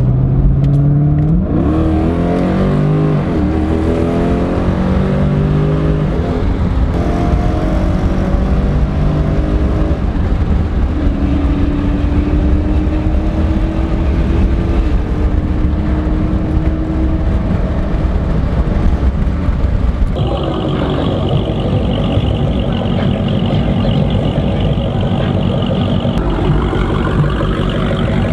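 Jeep Grand Cherokee SRT's 6.4-litre HEMI V8 running loud through a Corsa Xtreme cat-back exhaust. The engine note rises and falls in pitch as it revs, then holds steady for several seconds. The sound changes abruptly about two-thirds of the way through.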